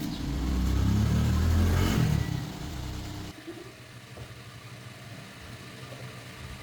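Small motorbike engine revved up for about two seconds, its pitch rising, then falling away. About three seconds in it drops abruptly to a quieter, steady low running sound.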